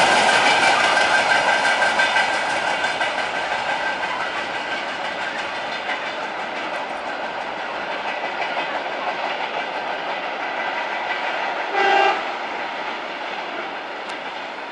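Freight train wagons rolling past with the clickety-clack of wheels over rail joints, the noise slowly fading as the train draws away. A short horn toot sounds about twelve seconds in.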